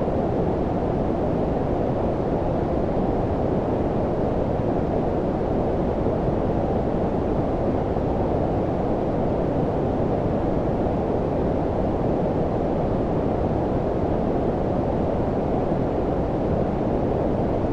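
Steady low-pitched synthetic noise, a deep even rumble with nothing above it, unchanging throughout.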